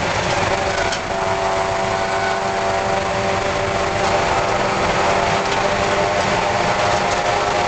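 Spec Miata's four-cylinder engine running on track at a nearly steady pitch, heard from inside the cockpit, with a brief drop in level about a second in.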